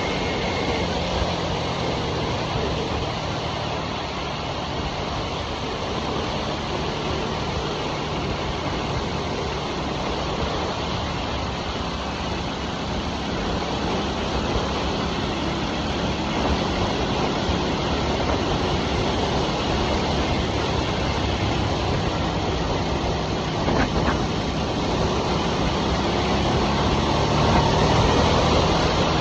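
2023 Harley-Davidson Nightster's Revolution Max 975 V-twin running at cruising speed, mixed with rushing wind and road noise. Near the end the engine note rises and gets louder as the bike picks up speed.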